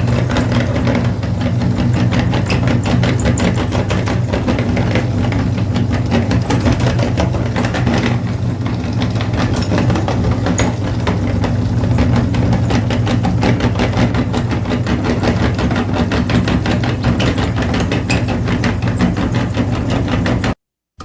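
Mini tractor's engine running steadily, a low hum with a fast, even ticking rattle; it cuts off abruptly near the end.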